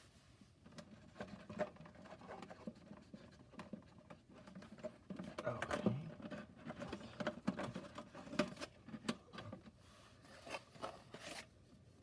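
Hands working the cardboard and small plastic parts of a toy playset: irregular light clicks, taps and rustling, busiest in the middle.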